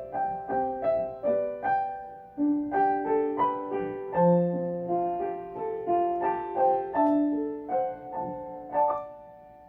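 Background piano music: a gentle melody of single notes and chords struck about twice a second, ending on a chord that rings out and fades near the end.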